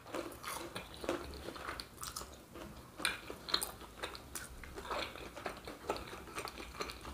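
Close-miked chewing of a crispy fried pastel filled with melted mozzarella, the fried crust crunching in many short, irregular crackles.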